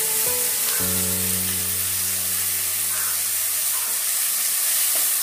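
Chopped onions sizzling steadily in hot oil as they are sautéed to soften, under background music with long held notes.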